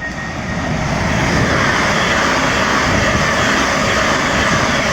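A train passing close by: a loud, even rush of wheel and running noise that swells over the first second and holds steady.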